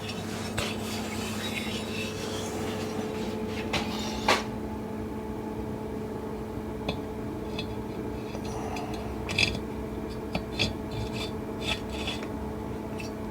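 Scattered knocks, clinks and rubbing of a cleaned Royal Enfield cylinder head being handled and set onto the engine, the loudest knock about four seconds in and a few more clinks near the end, over a steady background hum.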